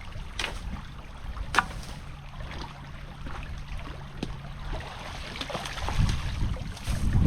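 Creek water running and splashing as a beaver dam of rocks, sticks and mud is dismantled, with a few sharp knocks. A faint low hum sits under the middle, and the splashing grows heavier near the end.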